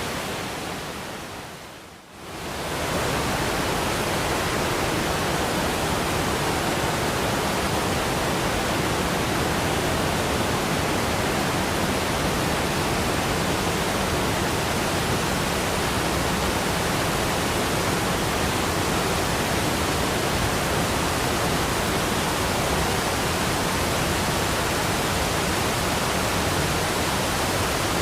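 Waterfall rushing, a steady full-range hiss of falling water that fades down and comes straight back up about two seconds in.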